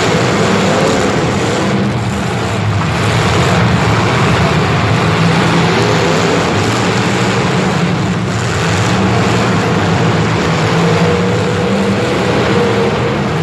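A motor vehicle engine running steadily under loud, constant noise, with a faint wavering tone above it.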